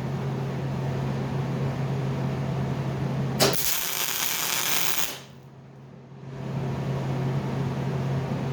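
Steady electrical hum from a MIG welder. About three and a half seconds in, a click is followed by about a second and a half of welding arc sizzle, which cuts off suddenly.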